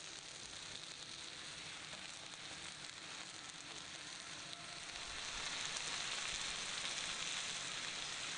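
Steaks and sliced mushrooms sizzling steadily on a griddle over a camp stove, a little louder from about five seconds in.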